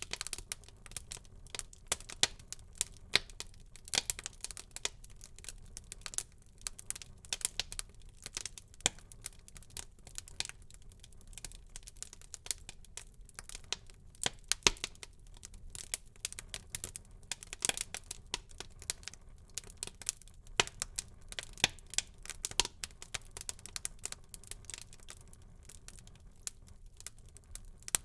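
Wood fire burning in a fireplace, crackling and popping with many irregular sharp snaps over a faint low rumble.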